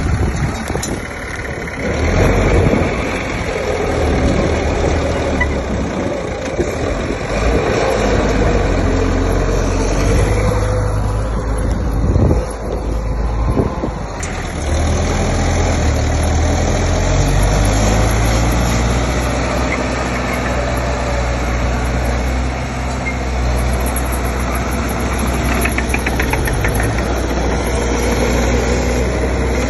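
Heavy diesel earthmoving machinery, a dump truck or bulldozer engine, running steadily, with brief louder surges about two seconds in and again around twelve seconds.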